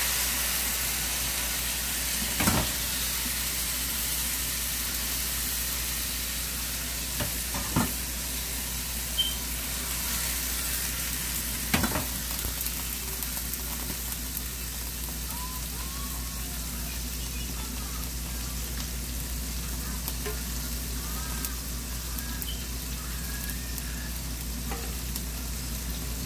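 Chicken wings frying in a pan of hot oil: a steady sizzle, with a few sharp knocks of a utensil against a pot in the first half.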